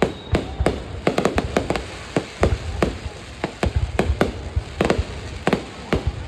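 Aerial fireworks going off: an irregular rapid series of sharp bangs, about three a second, over a continuous low rumble.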